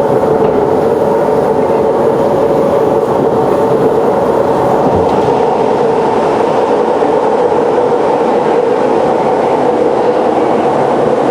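Siemens C651 metro train running at steady speed: an even rail noise with a steady hum, unchanging throughout.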